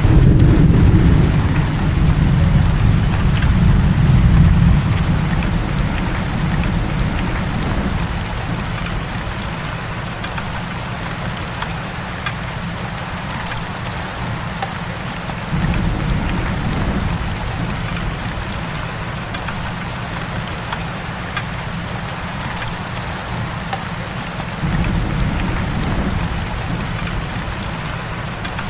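Heavy rain falling steadily, a dense even hiss. Low rumbles swell and fade under it three times: at the start, about halfway through, and near the end.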